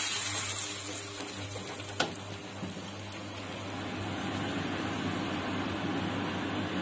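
Desi ghee sizzling on a hot tawa under a frying lachha paratha. The sizzle is loudest at first, fades within the first second to a steady, softer sizzle, and there is a single sharp tap about two seconds in.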